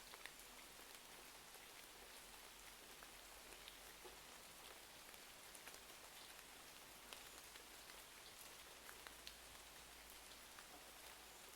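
Faint, steady rain hiss with scattered small ticks and crackles.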